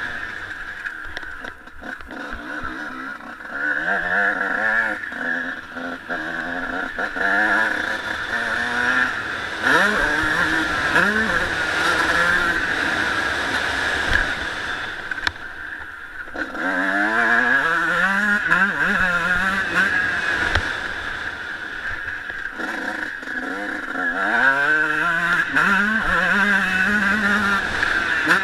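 Honda CR125 single-cylinder two-stroke motocross engine revving up and backing off again and again, with rising runs as the bike accelerates through the gears.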